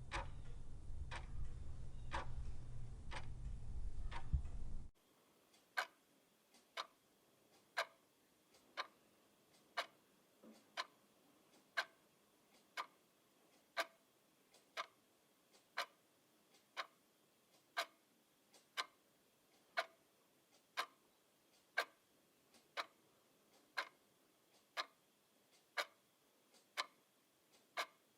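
Clock ticking steadily about once a second. A low hum underlies the first five seconds and cuts off suddenly, leaving the ticks alone.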